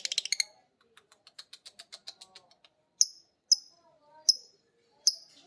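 Lovebird vocalising: a rapid high chattering trill (ngekek) that breaks off about half a second in. Next comes a run of soft quick clicks, then four separate sharp high chirps, each half a second to a second apart.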